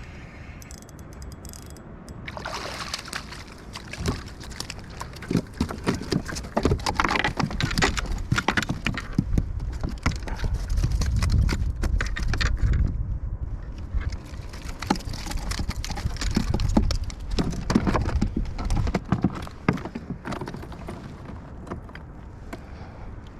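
Water sloshing and splashing around a kayak, with many irregular knocks and taps on the hull over a low rumble, busiest from a couple of seconds in until near the end.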